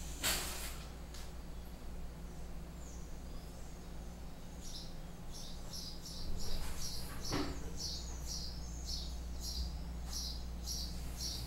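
A small bird chirping over and over, short high calls about two a second, starting about four seconds in. A sharp knock sounds just after the start and a fainter one around seven seconds in.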